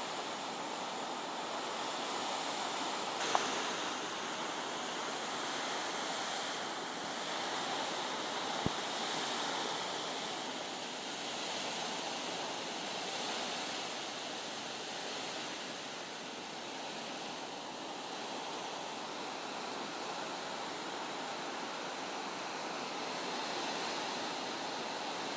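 Steady rushing noise of a storm, heavy rain and wind, with two short knocks about three seconds and nine seconds in.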